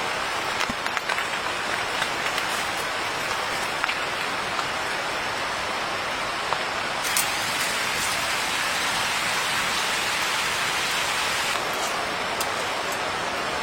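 Steady rain falling, with scattered sharp drop ticks; the rain grows heavier from about halfway through and eases again near the end.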